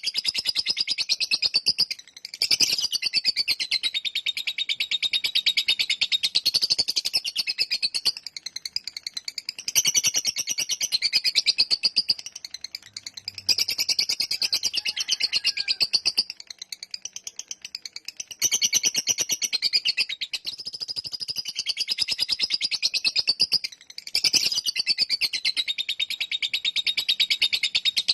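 Lovebird's long 'ngekek' song: runs of rapid, rattling high chirps, each lasting several seconds, with short breaks between runs.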